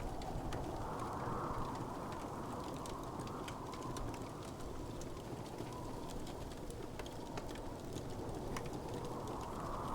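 Wood fire crackling, with many small scattered pops and ticks over a steady low rushing noise that swells softly a couple of times.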